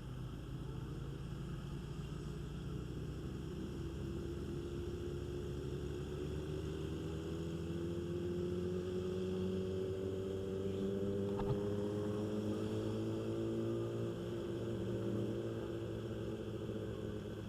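Kawasaki ZX-10R inline-four engine running at low speed while riding slowly. Its pitch climbs gradually and drops back near the end, with a single brief click about two thirds of the way through.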